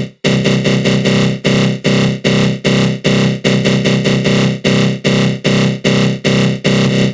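Synthesized 'attack growl' sound effect: a harsh, buzzy synth tone run through a flanger, pulsing in even stabs about two and a half times a second after a short break just after the start.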